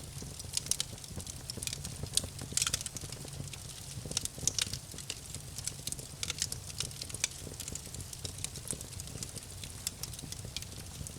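Campfire wood crackling: irregular sharp snaps, with louder ones about two to three seconds in and again around four and a half seconds, over a low steady rumble.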